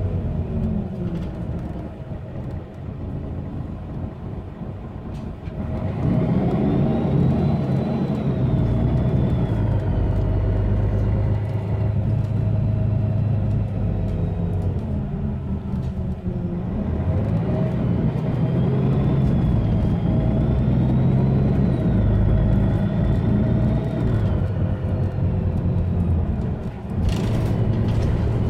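Mercedes-Benz Citaro bus's OM457hLA six-cylinder diesel pulling hard under load, with a loud turbo whistle that rises and wavers high above the engine note. The engine eases briefly about halfway through, then builds again and the whistle returns. A short clatter comes near the end.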